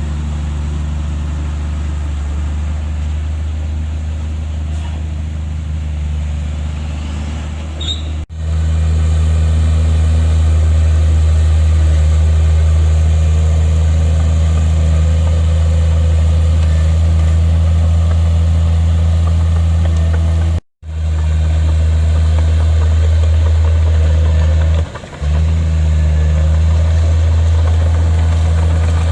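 Heavy diesel engine of earthmoving machinery running steadily with a deep, even drone. It cuts off abruptly about a third of the way in, then comes back louder. It breaks off sharply again about two-thirds of the way through, with a brief dip shortly after.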